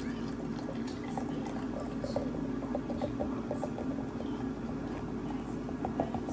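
Liquid sounds with many small, irregular crackling pops over a steady low hum.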